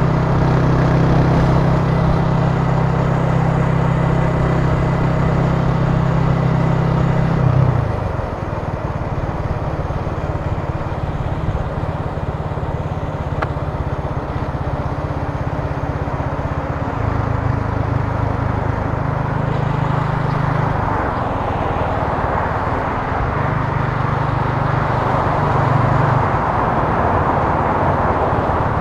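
Italika TC300 motorcycle engine running while riding, over steady wind and road noise. The engine drones steadily, drops away about a quarter of the way in as the rider eases off, and pulls again twice later on.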